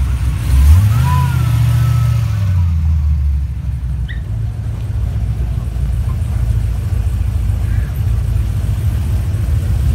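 Chevy Chevelle's engine rumbling as it drives off, its pitch rising with a throttle blip about half a second in and holding for a few seconds. It then gives way to a steadier, lower engine rumble from a classic Chevy C10 pickup rolling in.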